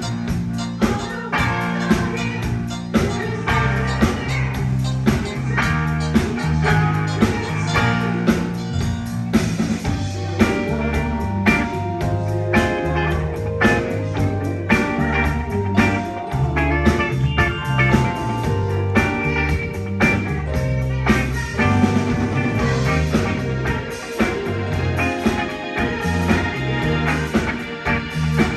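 Live band playing an instrumental passage: guitar over a moving bass line, with a steady beat.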